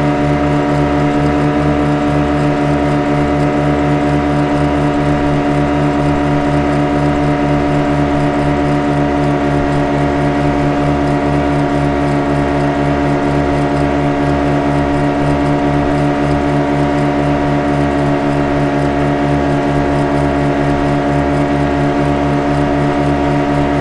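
Motorboat engine running steadily at constant speed: an even drone of several held tones over a fast, regular low throb, with no change in pitch or level.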